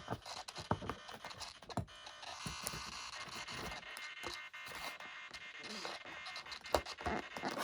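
Light clicks and taps of hands working small plastic parts of an RC plane's control linkage as a piece is pushed into place, over a faint steady high hum.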